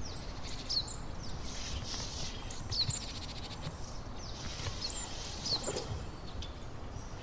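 Small birds chirping in the background: short, high, falling chirps scattered throughout, over a low steady background noise with a few light knocks.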